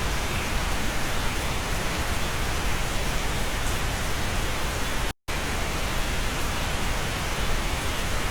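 Steady rain on a cabin, a dense even hiss. It cuts out completely for an instant about five seconds in.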